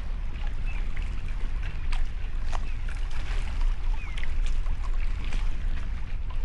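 Seaside outdoor sound: wind rumbling on the microphone over a steady wash of water, with a few short high chirps.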